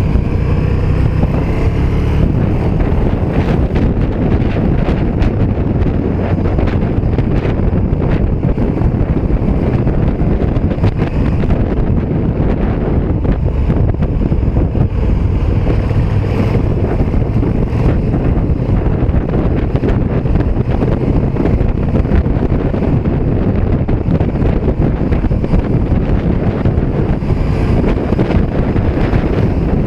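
KTM 1290 Super Duke R EVO's V-twin engine running while riding, mixed with steady wind rush on the microphone.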